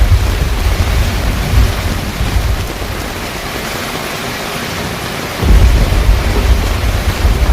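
Heavy rain pouring steadily on a car rooftop tent, under a deep low rumble of storm that dies down about two seconds in and surges back suddenly near the end.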